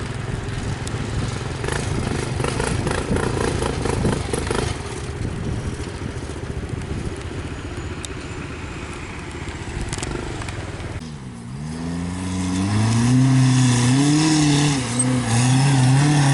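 Motor vehicle engines running in a passing parade of jeeps and motorcycles; about eleven seconds in, a nearby engine revs up and stays loud, its pitch rising and wavering.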